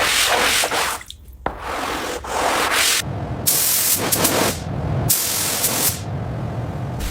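Restoration work on car bodywork: rubbing, sanding-like scraping and hissing spray, in short segments that change abruptly every second or two.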